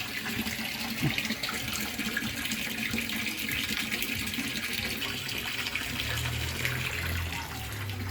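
Steady splashing and trickling water at a fish pond, full of small quick splashes. A low hum joins about six seconds in.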